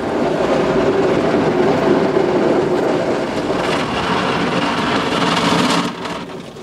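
Spinning car-wash brushes scrubbing over the car's body, heard from inside the cabin as a loud, steady rumbling clatter that drops off sharply near the end.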